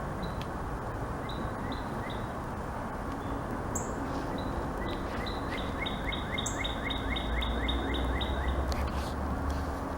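Songbird singing: scattered short chirps, then a quick run of about a dozen repeated down-slurred notes, roughly four a second, over a steady background rush.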